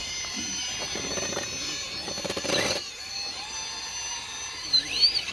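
Traxxas TRX-4 Sport RC crawler's electric motor and gear drivetrain whining as it crawls over rock, the pitch rising and falling with the throttle. A short louder scrabbling burst about two and a half seconds in.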